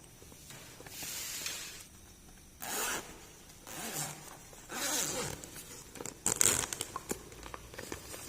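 Toy packaging being opened by hand: four short rasping rips or zips, then a loud burst of crackling clicks and a few smaller clicks near the end.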